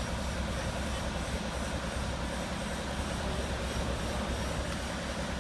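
Diesel engine of heavy earthmoving equipment running steadily, a low rumble with a fast, even pulse.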